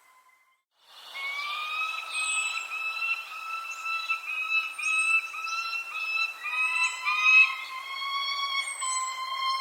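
Birds calling and singing together: runs of short, repeated whistled notes at several pitches, with thin high chirps every second or so. The calls start about a second in, after a moment of near silence.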